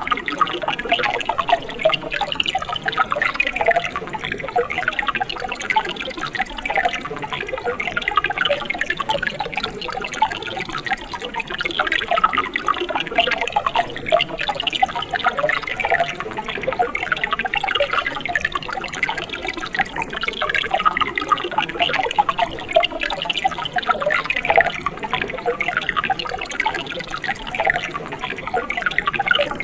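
Mountain stream babbling and splashing steadily over rocks, a dense patter of small splashes and gurgles.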